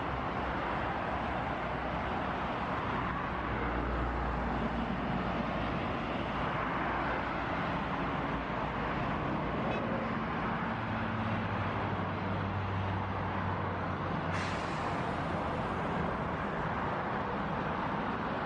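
Jet airliner engines running, a steady rush with low engine tones underneath; about fourteen seconds in a sudden high hiss joins in and carries on.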